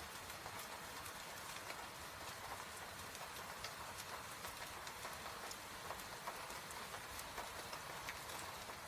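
Soft, steady rain hiss mixed with the scattered small crackles and pops of a wood fire burning in a fireplace.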